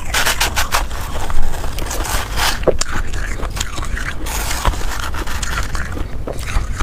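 Close-up crunching of ice being bitten and chewed, with dense crackling clicks throughout and a sharp, loud crunch about a second and a half in.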